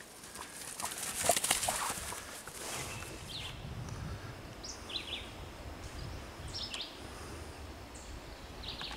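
A loud rustling hiss with small clicks for the first couple of seconds, then wild birds chirping in short calls every second or so over a low rumble.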